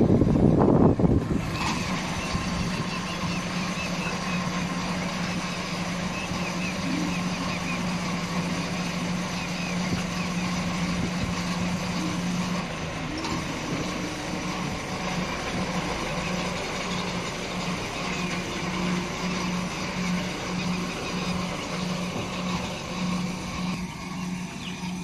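Heavy vehicle or machinery running: a loud low rumble at the start, then a steady low hum that about halfway through turns into an even on-off pulsing, somewhat over once a second.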